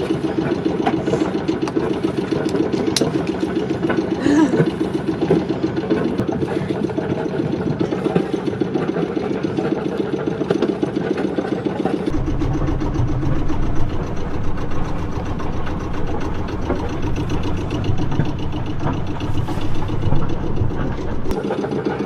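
Sailboat's engine running steadily with a fast, even chugging. About halfway through a deeper low rumble joins it, dropping away again shortly before the end.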